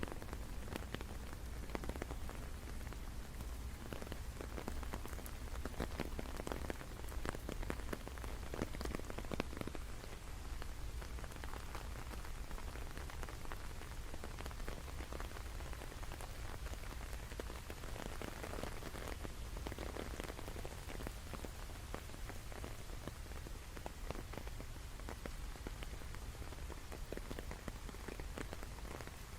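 Steady rain falling, with many separate drops ticking sharply over an even hiss and a low, steady rumble beneath.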